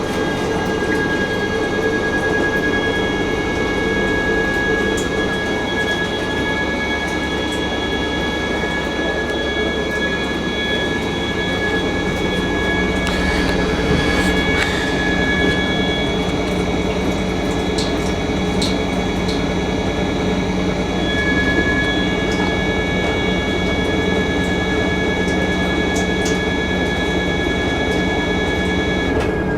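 Fisher & Paykel MW512 top-loading washing machine running, its motor giving a steady high-pitched whine over a low hum, with a few faint ticks about halfway through.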